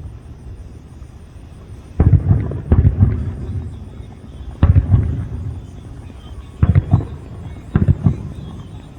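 Aerial fireworks shells bursting: five booms, the first about two seconds in and the rest spread over the next six seconds, each followed by a rumbling decay.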